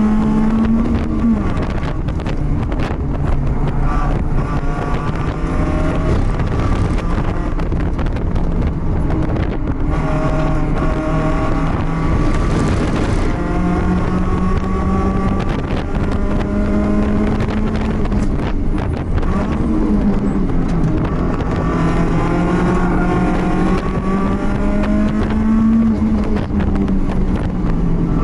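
BMW race car engine heard from on board at racing speed, its note climbing and falling again and again as it accelerates, shifts and slows for corners, over a steady rush of wind and road noise.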